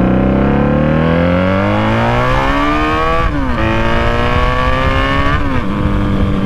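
1996 Honda Magna 750's V4 engine accelerating hard, its pitch climbing, with two upshifts about three and five and a half seconds in where the pitch drops sharply, then pulling at a steadier pitch.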